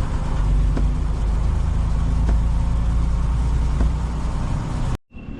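Vehicle engine and road rumble running steadily, low and loud, with faint ticks about every second and a half; it cuts off suddenly near the end.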